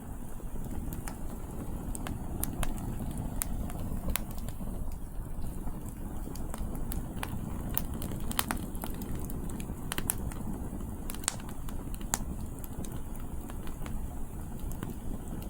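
Wood campfire burning, with irregular sharp crackles and pops from the burning firewood over a steady low rush of wind.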